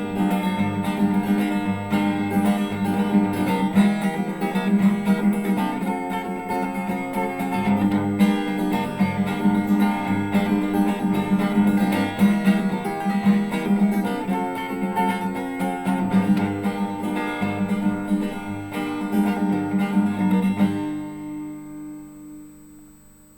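Acoustic guitar strummed in a steady rhythm, closing out a song; the last chord rings and fades away near the end.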